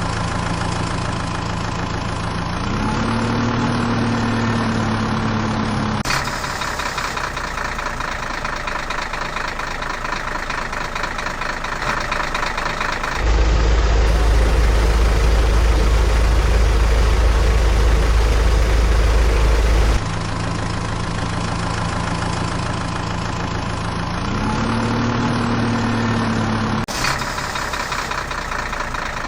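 Heavy-vehicle engine idling, with a short rise in pitch like a rev about three seconds in that recurs the same way near the end. Between about 13 and 20 seconds a much louder, deep, steady rumble takes over, and the sound changes abruptly at each switch.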